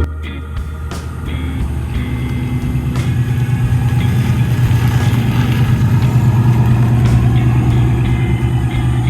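1969 Chevrolet truck's engine running with a steady pulsing exhaust note, growing louder over the first few seconds and then holding.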